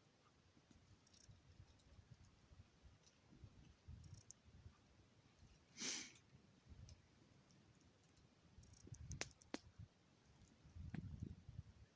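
Near silence in snowy woods, broken by a few faint sharp clicks and one brief swish about six seconds in.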